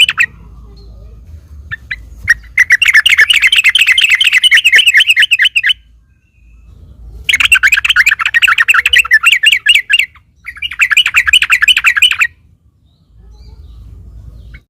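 Yellow-vented bulbul (trucukan) singing its rapid chattering song in three long bouts, the first starting about two seconds in, with short breaks between.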